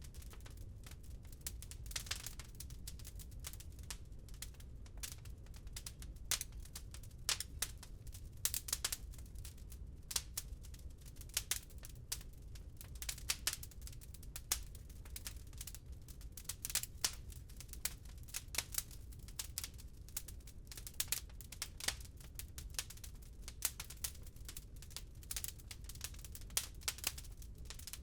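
Wood fire in a fireplace crackling, with sharp irregular pops and snaps, several a second, over a steady low rumble.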